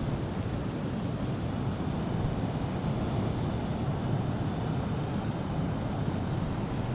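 Strong wind buffeting a clip-on wireless microphone: a steady low rumble with no breaks.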